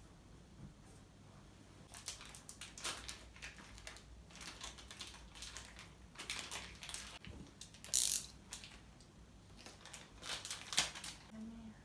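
Paper pleated blind being handled and unfolded: irregular crinkling and crackling of the paper, with one sharp crack about eight seconds in.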